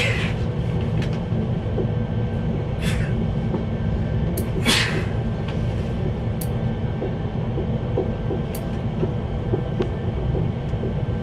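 Cabin noise inside a CRH1A high-speed electric multiple unit on the move: a steady low rumble of the running gear on the track. A few brief hisses and clicks come through it.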